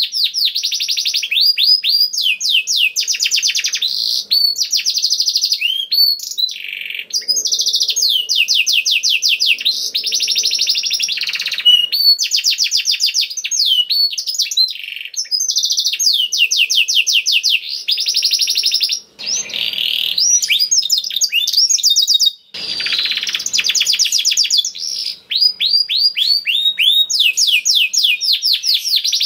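Domestic canary singing a long, continuous song of fast rolling trills and rapid repeated high notes, changing from one trill to the next with only brief breaks.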